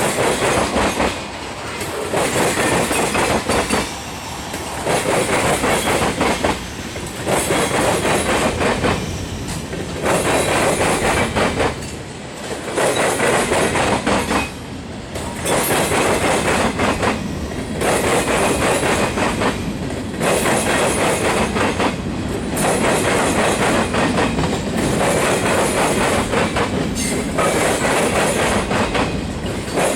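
Freight cars of a manifest train rolling past, the wheels clattering over the rail joints in a repeating rhythm of loud passes and short lulls about every two seconds as each car goes by.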